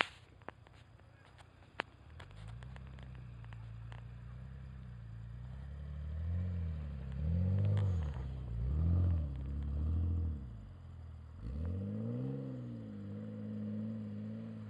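Mitsubishi Legnum VR-4's twin-turbo V6 revving up and down in four swells as the car spins donuts in snow. The engine drops off briefly, revs once more, then holds a steady note.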